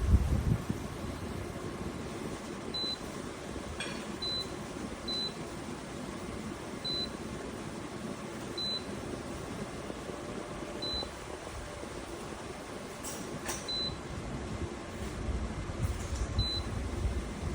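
Portable evaporative air cooler giving short, high, identical beeps at uneven intervals, about eight in all, as it acknowledges remote-control button presses, over the steady hum of its fan. A few faint clicks fall in between.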